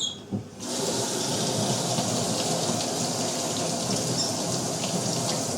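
Water running from a tap into a sink, turned on about half a second in and running steadily for about five seconds.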